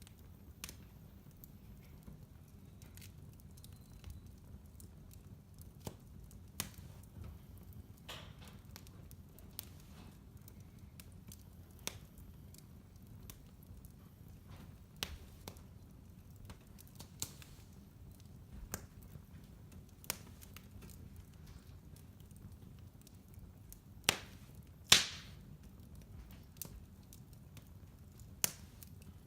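Fireplace fire crackling: scattered sharp pops and snaps over a low steady rumble, with two louder pops about three-quarters of the way through.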